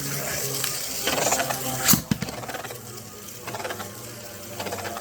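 Plastic Beyblade spinning tops, Gyro Engine Gear and Drigger S, spinning and scraping against each other and the stadium floor with a steady rattle, with one sharp clack of a collision about two seconds in.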